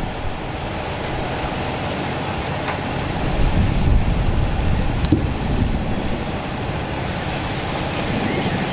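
Steady rushing noise with a heavy low rumble, typical of strong wind buffeting the microphone outdoors, with a sharp crack about five seconds in.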